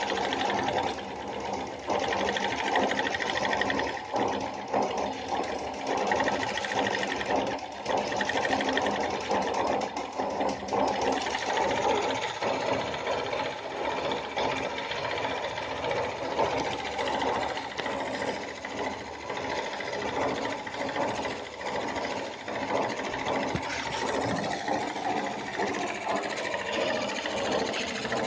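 Small model steam engine running fast with a steady, rapid mechanical clatter.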